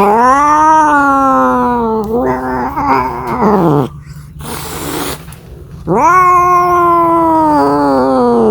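Domestic cat yowling: two long, drawn-out calls, each rising and then slowly falling in pitch, with a short breathy noise between them around the middle.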